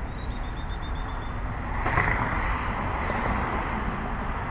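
Southwest Airlines Boeing 737's jet engines at takeoff power, heard as a steady rushing noise that grows louder about two seconds in.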